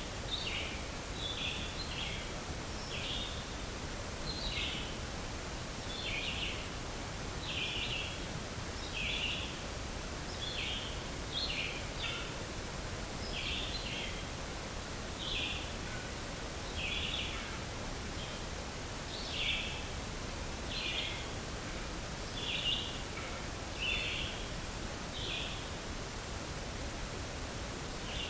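Short high-pitched animal calls, about one every second and a half, over a steady outdoor hiss.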